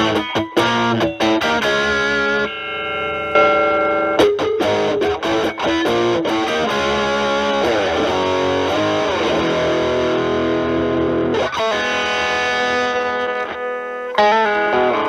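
Distorted electric guitar: a Stratocaster with single-coil pickups through a Proco RAT2 with its distortion at about 10 o'clock, stacked with an Ibanez TS9 as a gain boost, into a Marshall Valvestate amp. It plays improvised bluesy lead phrases of picked notes and sustained, bent notes.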